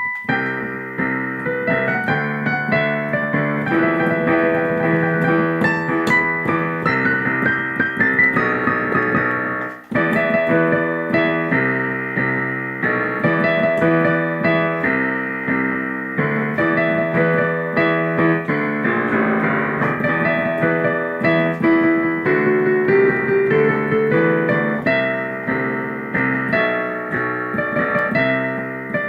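Solo piano playing an arrangement of an animated TV series' opening theme song: a steady run of chords under a melody, with a brief break about ten seconds in.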